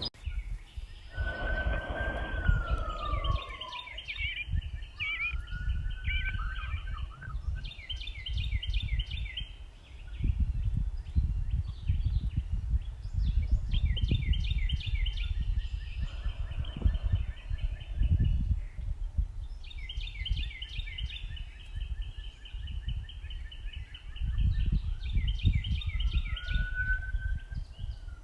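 Backyard songbirds singing, with repeated phrases of rapid high chirping trills and a few slurred downward whistles. Under them runs a low rumble that comes and goes in gusts.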